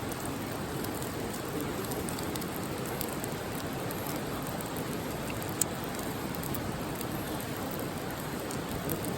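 Wood campfire burning: a steady hiss with scattered small crackles and one sharper pop about five and a half seconds in.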